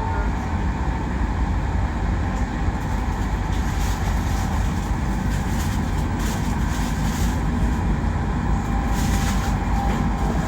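PKP Intercity passenger train running at speed, heard from inside the carriage: a steady rumble of the wheels on the rails, with a faint steady whine.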